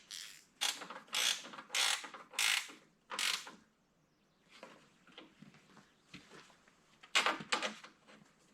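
Socket ratchet worked in quick strokes, about six strokes in the first three and a half seconds, then fainter strokes, then two more strong ones near the end.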